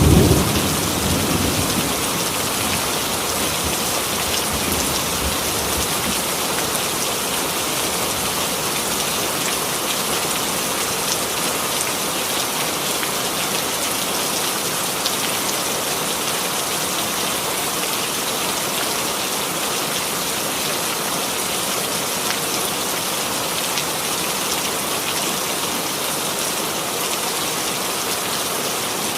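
Steady rain falling on a surface, an even hiss throughout. A low rumble of thunder dies away in the first couple of seconds.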